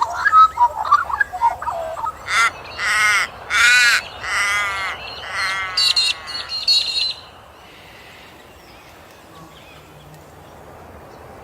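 Birds calling: a warbling, chortling phrase, then a series of five loud, harsh, drawn-out calls, and a few higher notes. The calls stop about seven seconds in, leaving only a faint background.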